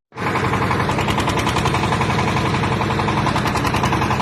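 Engine of a tractor-driven backhoe running steadily with a rapid, even pulsing beat; the sound drops out for a split second at the very start, then resumes.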